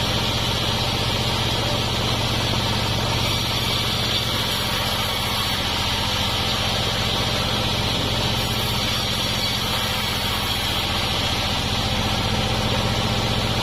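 Homemade sawmill's engine running steadily, a low drone with a steady higher whine over it.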